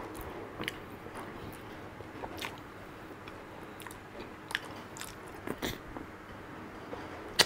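A person chewing rich, creamy durian flesh: wet chewing with scattered short lip smacks, the sharpest near the end.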